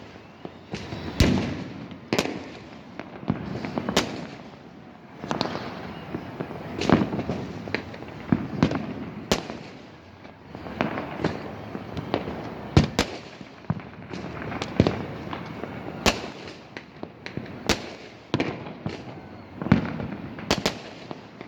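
New Year fireworks and firecrackers going off all around: many sharp bangs at irregular intervals, with a continuous rumble of more distant explosions between them.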